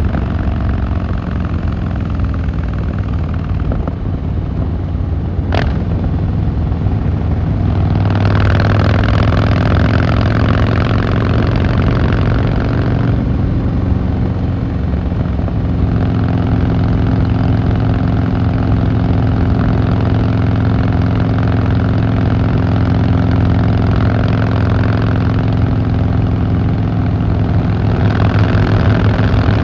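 Harley-Davidson Fat Boy Lo V-twin engine and exhaust running steadily under way, the throttle opening to a louder, brighter note about eight seconds in and again near the end. A single sharp click about five and a half seconds in.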